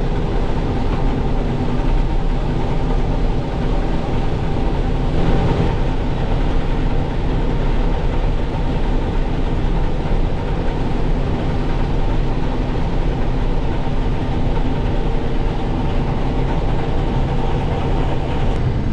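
International Harvester 1440 combine running steadily under load while harvesting soybeans: a constant engine drone with the whir of the threshing and cutting machinery over it.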